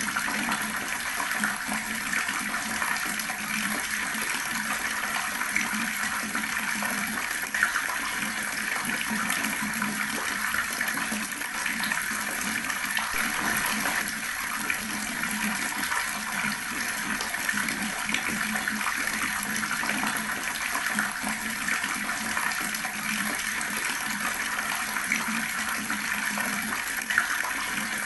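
Water running steadily from a tap and splashing, with an even, unbroken flow.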